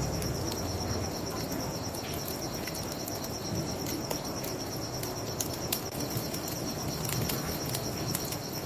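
Crickets chirping in a steady, fast pulsing trill, with a wood fire crackling in scattered sharp pops over a low rushing noise.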